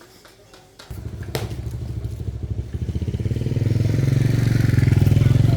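A small engine starting about a second in and running with a fast, even pulse, growing louder over the next few seconds.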